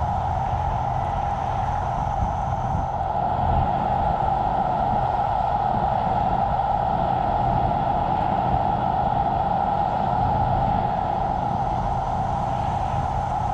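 Tesla Cybertruck driving on a snow-covered highway: steady road and tyre noise with a low rumble underneath and no engine note, since the truck is electric.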